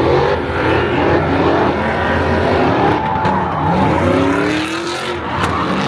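Car engine revving hard several times, its pitch climbing and falling, over a rough wash of tyre noise, as in a burnout.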